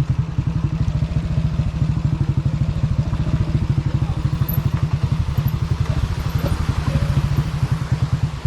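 Motorcycle engine running at a steady low speed, its exhaust pulsing in an even, rapid beat of about a dozen pulses a second.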